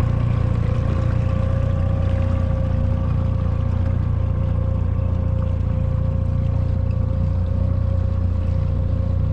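A boat's engine running at a steady speed: a continuous low drone with a steady whine on top, and no change in speed.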